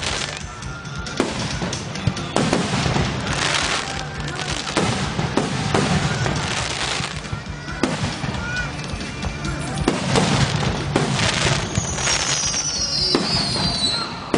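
Aerial fireworks going off in a steady run of bangs about a second apart, with crackling between them. A high falling whistle comes near the end.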